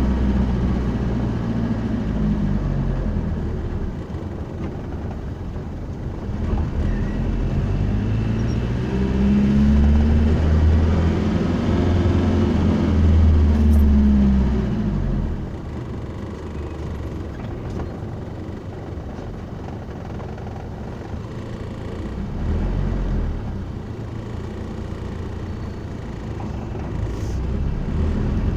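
Vehicle engine running, heard from inside the cab along with road noise. Its note climbs and falls between about six and fifteen seconds in as the vehicle speeds up, then settles to a quieter, steady run.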